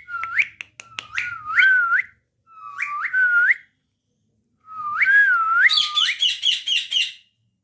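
Pet parrot whistling: clear, rising and dipping whistled notes in three phrases with short pauses between them. The last phrase ends in a quick run of about ten short, higher chirps.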